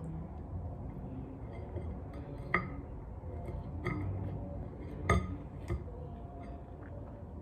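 Cutlery clinking against a dish during a meal: about four light knocks, each with a short ring, the loudest about five seconds in.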